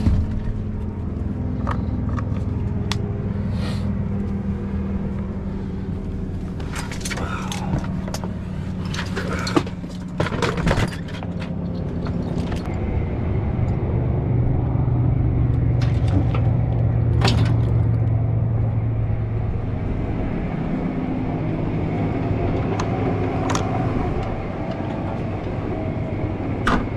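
An engine running steadily, with several sharp clanks and knocks about a third of the way in and a few more later.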